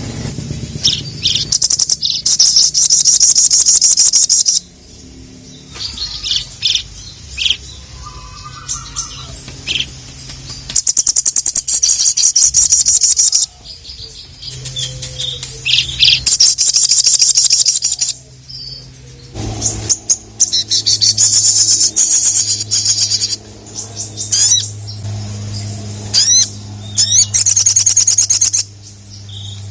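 Little spiderhunter (sogon) singing: bursts a second or more long of very rapid, high, chattering repeated notes, broken by short pauses and a few single sharp notes. A steady low hum runs underneath in the later part.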